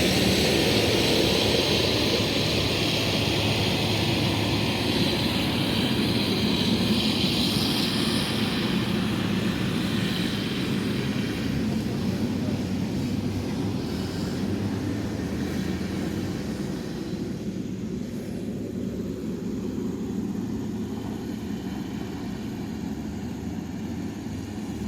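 Diesel engine of heavy earthmoving machinery running steadily, slowly fading as it draws away.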